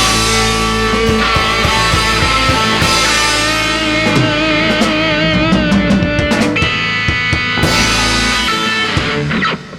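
Instrumental passage of a rock song: guitar over a drum kit, with a lead line of bent, wavering notes in the middle. The music cuts off suddenly near the end.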